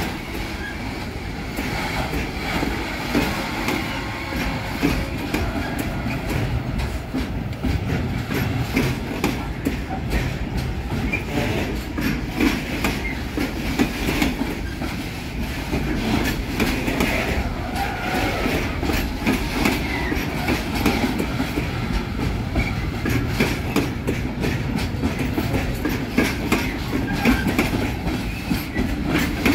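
Freight train's container flat wagons rolling past close by, a steady rumble of wheels on rail with repeated sharp clacks as the wheels cross rail joints.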